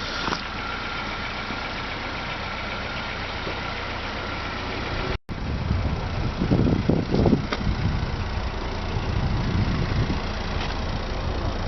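1997 Honda Accord's four-cylinder engine idling steadily. The sound breaks off for an instant about five seconds in and is louder after that.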